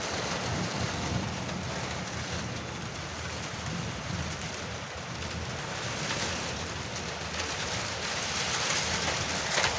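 Heavy rain falling on a veranda roof: a steady, dense hiss with a low rumble underneath, growing a little louder near the end.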